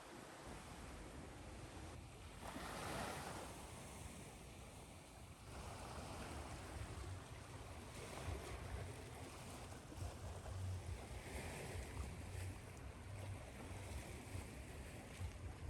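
Ocean waves washing ashore, faint and steady, with a louder surge of surf about two and a half seconds in and another around six seconds. A low fluttering rumble of wind on the microphone runs under it, growing stronger in the second half.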